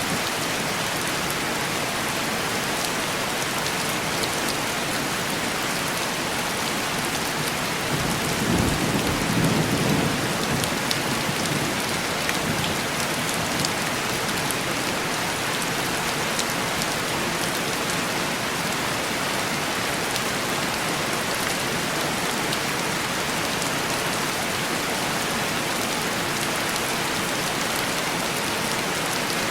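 Heavy rain pattering steadily on window glass, with a low rumble of distant thunder about eight seconds in that lasts a couple of seconds.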